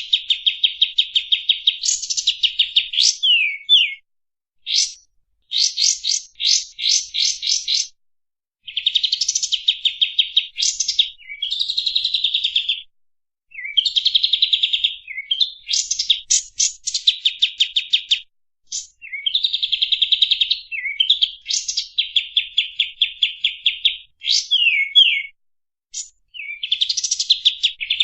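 Kapas tembak song: fast, tightly spaced trills of repeated sharp chirps, delivered in phrases of one to three seconds with short pauses between them, some phrases ending in quick sweeping notes.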